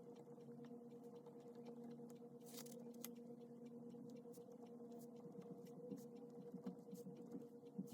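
Faint scratching and ticking of a pen writing on paper over a steady low hum, with one short brushing rustle about two and a half seconds in.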